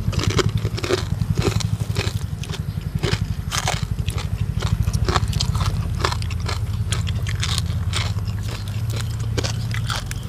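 Close-miked eating sounds: chewing and crunching of green papaya salad, with many short wet clicks and smacks of the mouth, over a steady low rumble.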